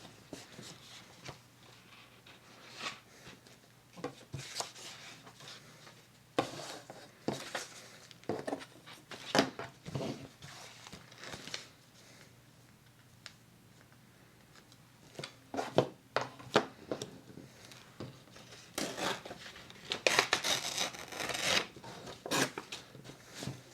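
Paper and card being handled and shuffled at a craft table: scattered light taps and clicks with short rustles, and a longer stretch of paper rustling near the end.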